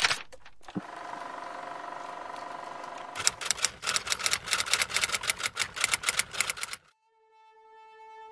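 Steady hiss with a faint hum, then from about three seconds in a fast run of sharp mechanical clicks, about seven a second, that stops suddenly near the end; a held musical note starts as the clicking stops.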